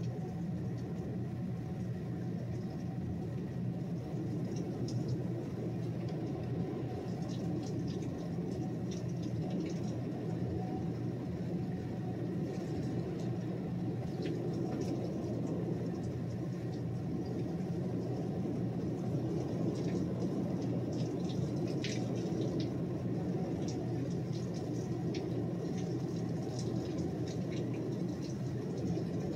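Heavy rain coming down in sheets: a steady low rush of rainfall, with scattered drops ticking over it.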